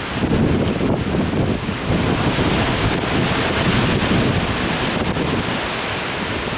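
Heavy typhoon swell surging and breaking, the sea churned white, with a steady rush of surf. Strong wind gusts buffet the microphone with a low rumble.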